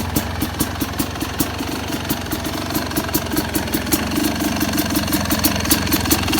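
Yamaha YZ250X's single-cylinder two-stroke engine idling steadily, with sharp crackles several times a second. The ignition timing is retarded: the pulser coil has been shifted for more delay.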